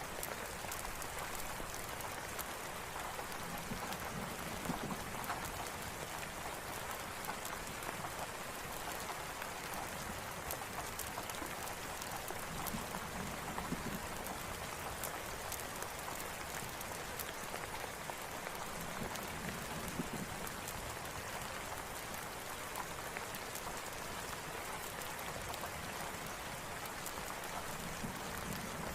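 Steady rain falling, an even hiss dotted with many small sharp pops and crackles from raindrops and a crackling campfire. A soft low swell comes back about every seven or eight seconds.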